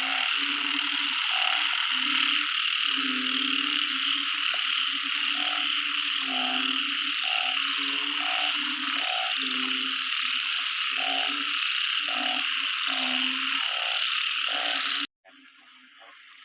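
A chorus of frogs calling after heavy rain: many low, repeated croaks overlapping every half second or so over a dense, steady high-pitched hiss. The sound cuts off abruptly about fifteen seconds in.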